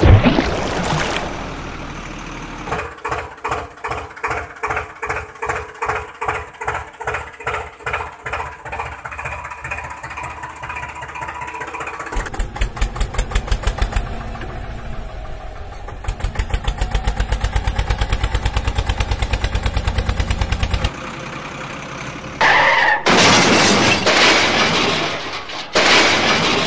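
Vehicle engine sounds: a pulsing sound about twice a second like an engine being started, then a steady low engine running, then a loud noisy stretch near the end.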